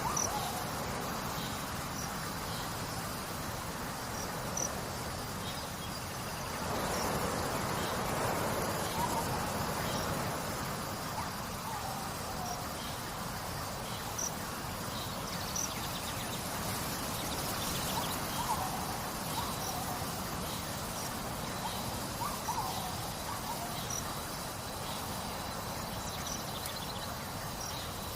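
Nature soundscape: insects chirping in scattered short high notes over a steady trickle of running water, with a few brief, lower calls now and then.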